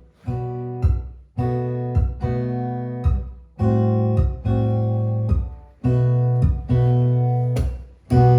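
Acoustic guitar strumming a repeating pattern of held chords, each cut short briefly before the next stroke. It is the backing part that carries the song's bass line.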